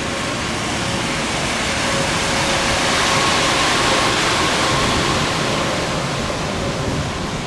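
Arriving Boeing 737's jet engines passing: a broad rushing noise that swells to a peak midway and eases off, with a faint steady whine.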